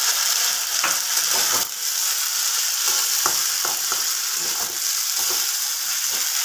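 Hot oil sizzling steadily as a freshly added wet onion, green chilli and tomato paste fries with sliced onions in a metal kadai. A flat metal spatula stirring it scrapes and clicks against the pan a few times.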